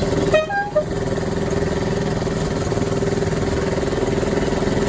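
Engine of a miniature railway diesel-outline locomotive running steadily with a pulsing beat as it pulls the passenger carriages. About half a second in, the engine sound dips briefly under a short, sharp high-pitched sound.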